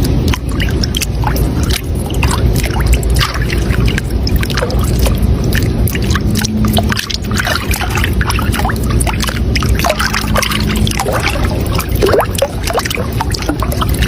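Running water splashing and trickling steadily, with many small splashes over a deep continuous rush.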